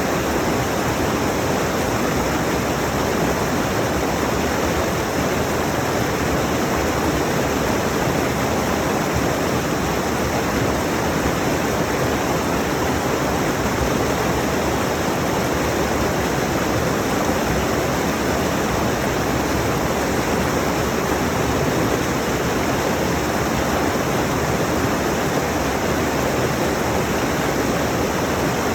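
Rushing mountain stream: a steady, unbroken rush of water over rocks.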